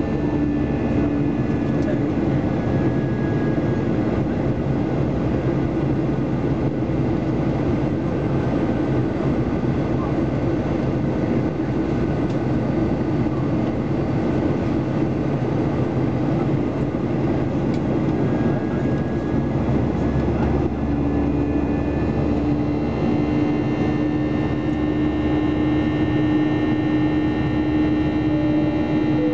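Cabin noise inside a Boeing 737-800 in flight: the steady rush of air and the hum of its CFM56-7B turbofans, with several held engine tones. One low tone grows stronger about twenty seconds in.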